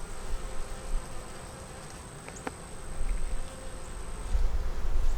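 Honeybees buzzing steadily at the open top of a hive where the winter cluster covers the frames, with a single light click about two and a half seconds in.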